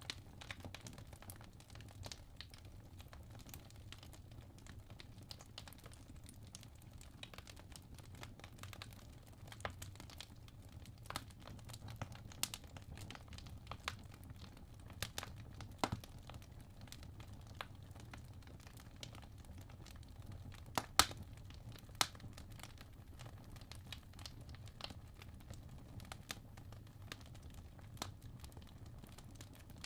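Wood logs burning in a fireplace, crackling with irregular sharp pops over a low, steady rumble of the flames; the loudest pops come a little after twenty seconds in.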